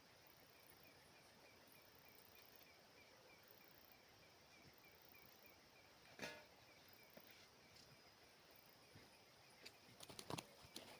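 Near silence: faint outdoor ambience with a soft chirp repeated evenly about three times a second, a single click about six seconds in, and a few light knocks near the end.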